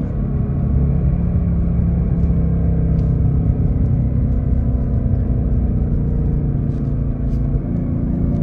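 2024 Ford Mustang GT's 5.0-litre Coyote V8 with active exhaust, running in second gear as a steady low rumble. The revs drop right at the start and rise again near the end.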